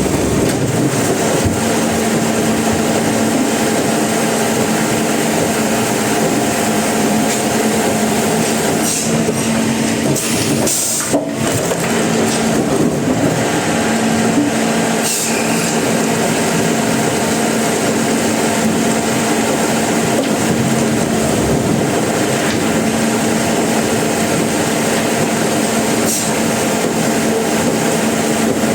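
Sawmill machinery running steadily and loudly, with a constant low hum under a dense mechanical noise and a brief break a little over ten seconds in.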